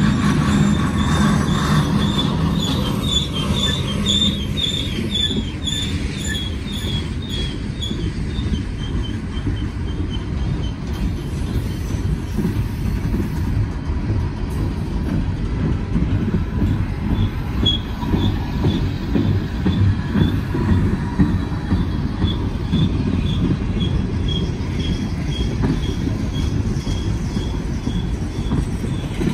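Freight train cars rolling past: a steady rumble of steel wheels on rail, with runs of short, high-pitched wheel squeals repeating in quick succession, once in the first few seconds and again through the last third.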